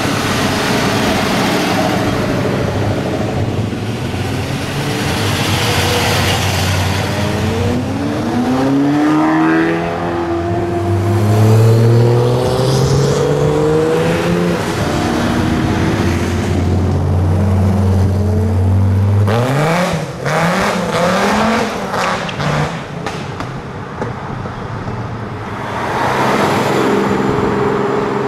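A string of sports cars pulling away one after another, each engine rising in pitch as it accelerates up through the gears. It opens with a classic Shelby Mustang's V8, has a Lotus revving hard mid-way with sharp cracks as it goes, and ends with a Toyota Supra pulling off.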